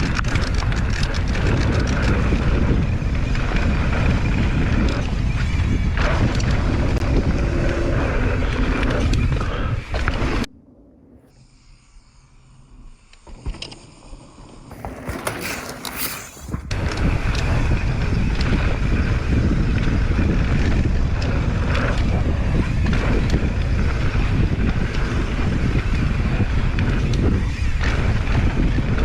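Wind buffeting an action camera's microphone, with tyres rumbling on dirt, as a mountain bike rides fast down a trail. About ten seconds in the rush drops away for some six seconds, then comes back just as loud.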